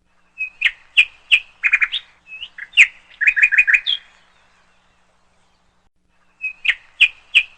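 A bird chirping in quick runs of short, sharp chirps for about four seconds, falling silent for about two seconds, then starting again near the end.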